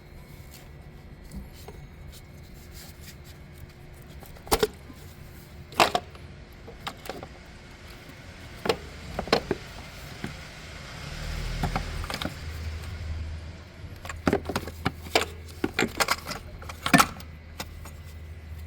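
Scattered sharp metallic clinks and clicks, a dozen or so, over a low steady hum that grows stronger about halfway through.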